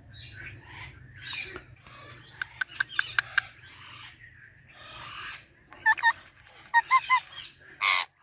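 Pet parrot calling: a string of clicks, chirps and short whistles, with paired whistled notes about six and seven seconds in and a loud harsh squawk near the end.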